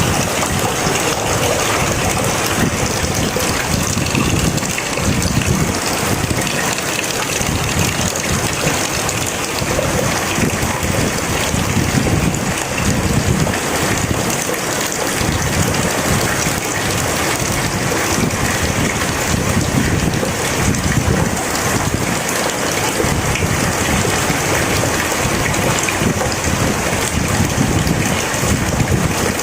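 Heavy rain falling steadily, with an uneven low rumble underneath.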